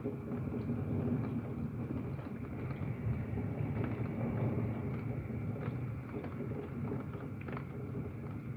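Steady heavy rain heard through a closed window, a low, even wash with faint scattered ticks of drops striking.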